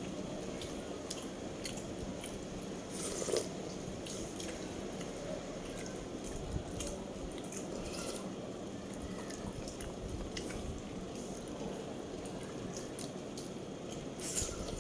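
Wet, close-up chewing sounds with many small sharp clicks and smacks throughout, one a little louder about three seconds in.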